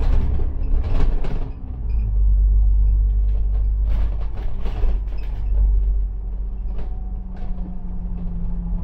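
A bus running, with a steady low engine rumble and hum. Bursts of rattling and knocks come about a second in and again around four to five seconds in.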